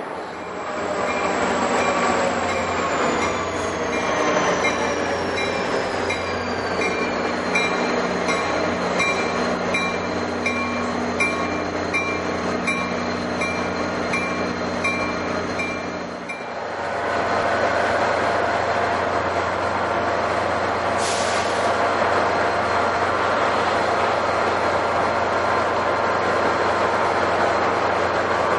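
NJ Transit commuter train running past, steady and loud, with a regular click about every two-thirds of a second and a high whine that falls in pitch over several seconds. About halfway through the sound breaks off and a different steady train sound takes over.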